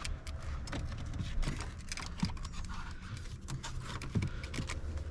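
Light, irregular plastic clicks and rattles of a dashboard trim bezel and its retaining clips being handled, over a low steady hum.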